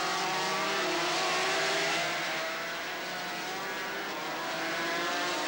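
500cc two-stroke Grand Prix racing motorcycle engine running at high revs, a buzzing multi-toned note that dips slightly in pitch and then holds steady.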